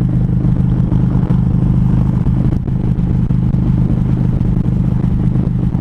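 Harley-Davidson Road Glide's V-twin engine running at a steady highway cruise on cruise control, a constant unchanging engine note.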